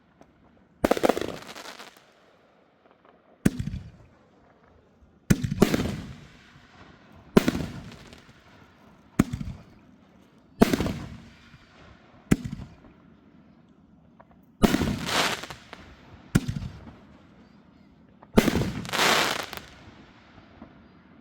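Fireworks going off: about ten sharp bangs, one every second or two, each followed by a short fading tail.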